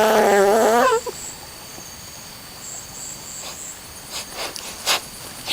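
Insects chirping steadily in a high pulsing chorus. A loud, wavering pitched call is heard during the first second, and a few sharp clicks or snaps come near the end.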